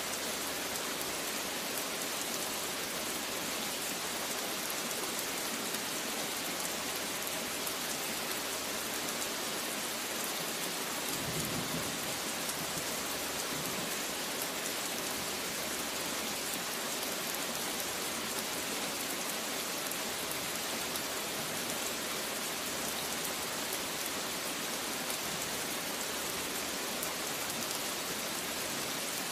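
Steady rain falling, with a brief low rumble of distant thunder about eleven seconds in.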